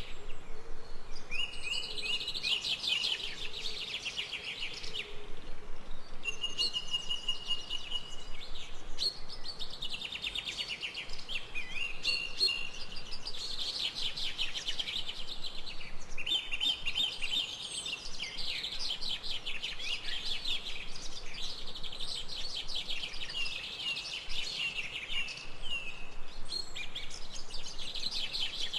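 Songbirds singing in a forest, a steady run of quick trilled and chirping phrases one after another, over a faint even background hiss.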